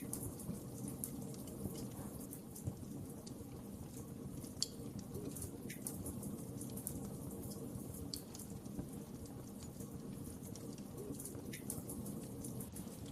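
Wood fire burning in a fireplace: a steady low rumble of flames with scattered sharp crackles and pops every second or two.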